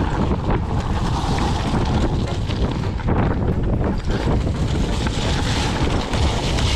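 Wind buffeting the action camera's microphone while riding fast downhill, over a constant rumble and rattle of tyres and bike on rough ground, with many small knocks.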